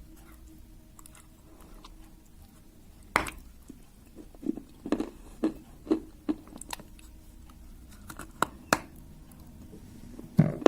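A person biting and chewing pieces of a clay plate: a sharp crack of a bite about three seconds in, then a run of short crunches as it is chewed, with more sharp bites near the end.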